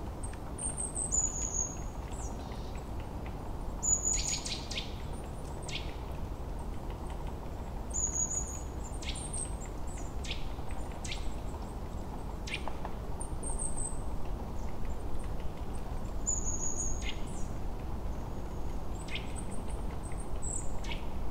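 Small birds chirping: short, high, falling notes, sometimes in pairs, every three to four seconds over a steady low background noise.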